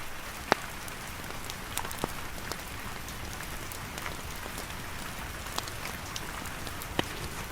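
Steady rain falling on a tent, with a few sharp crackles from a campfire, the loudest about half a second in.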